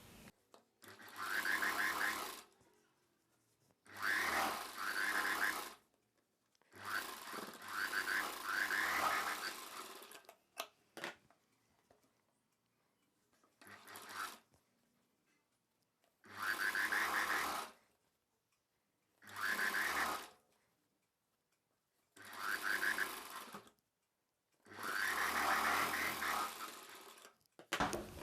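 Electric sewing machine stitching in short runs, starting and stopping about eight times with brief pauses between as the seam is guided along.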